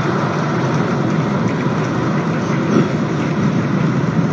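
Rumble of the Starship Super Heavy booster's 33 Raptor engines in flight, heard from miles away as a loud, steady, crackling rumble.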